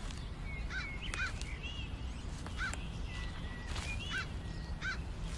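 Birds calling outdoors: a series of short chirping calls, one every second or so, over a steady low rumble of background ambience.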